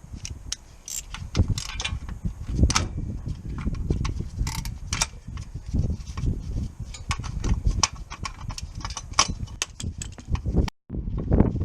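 Irregular clinks and knocks of metal tools and parts being handled during a car clutch job, over a low rumble. The sound breaks off for a moment near the end.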